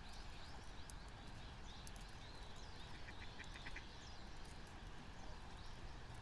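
Faint outdoor ambience with scattered small high bird chirps, and about three seconds in a quick run of about six short, evenly spaced high notes.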